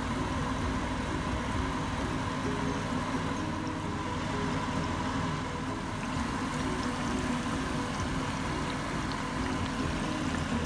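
Hot oil sizzling and bubbling steadily around handesh (sweet fried cakes) deep-frying in a pan, with a steady low hum underneath.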